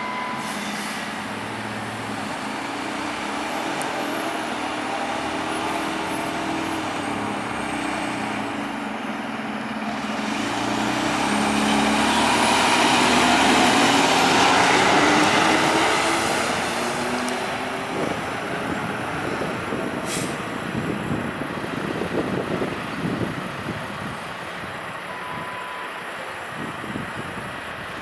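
Diesel engine of a Pierce Enforcer tractor-drawn aerial ladder fire truck driving past, growing louder to a peak about halfway through and then fading as it moves away, its engine pitch rising and falling. A short air-brake hiss comes about two-thirds of the way in.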